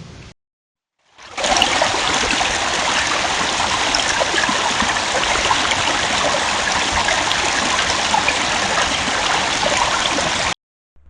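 Loud, steady rush of water, like rain or a stream close to the trail camera's microphone. It starts about a second in and cuts off abruptly near the end.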